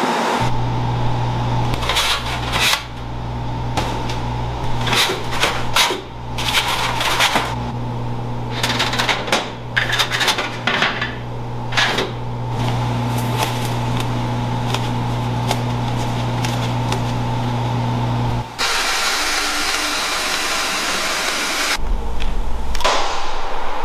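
Workshop sounds of work on a car transmission: a steady motor hum with many short clicks and knocks over it. The hum stops about 18 seconds in.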